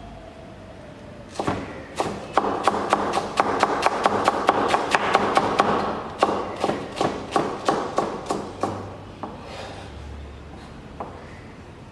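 Kitchen knife chopping on a wooden cutting board in a quick run of knocks, about four a second. The knocks slow and fade after about eight seconds.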